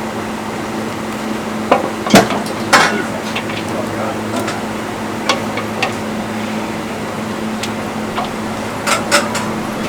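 Scattered sharp knocks and clatter of kitchen utensils and cookware being handled, the loudest about two seconds in and a pair near the end, over a steady mechanical hum.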